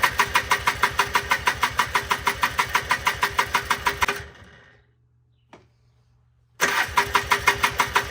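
1995 Polaris Trail Boss 250 two-stroke engine cranking over in an even, rapid chug without catching. The cranking stops about four seconds in, then starts again about two seconds later: a crank-no-start, with the engine backfiring on its start attempts.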